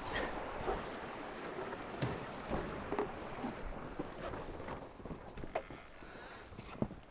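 Tornado racing catamaran sailing fast downwind: water rushing and splashing along the hulls, with wind on the microphone and occasional short splashes or knocks.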